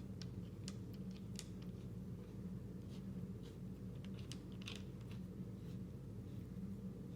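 Straight razor being worked on a whetstone: faint, irregular light clicks and short scraping strokes of the blade against the stone, over a steady low hum.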